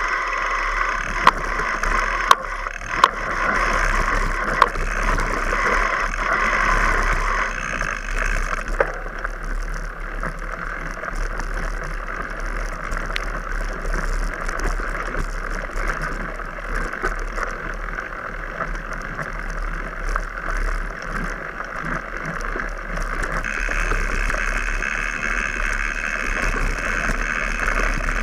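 Mountain bike being ridden over a dirt track: steady tyre and ride noise, with a few sharp knocks in the first few seconds.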